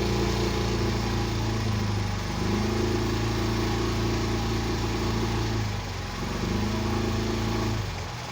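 Motorboat engine running steadily, its pitch dipping briefly about two seconds in and again around six seconds, then falling away near the end.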